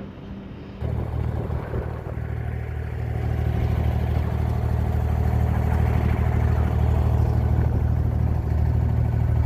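Engine of a Dubai Creek abra (1-dirham boat) running with a steady low hum. It comes in suddenly about a second in and grows louder over the next few seconds, then holds steady.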